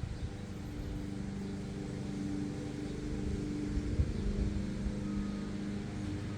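A steady low mechanical hum with a few held tones over a rumble.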